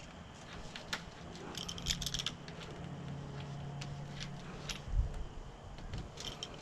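Scattered light clicks and taps of hands and a tool working rubber spline and screen mesh into a door screen frame, with a faint low hum underneath and one dull thump about five seconds in.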